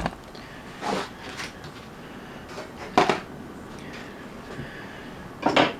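A few separate knocks and clatters of cooking gear being handled, with a sharp one about three seconds in and a louder one near the end.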